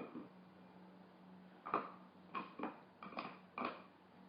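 A dog gnawing and shifting a bone: five short, hard clacks in the second half, over a faint steady hum.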